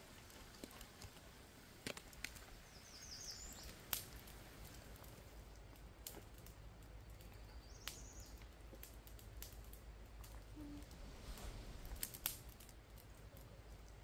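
Faint outdoor ambience: a small bird chirps twice, a quick run of high notes about three seconds in and again near eight seconds, among scattered light clicks and a low steady rumble.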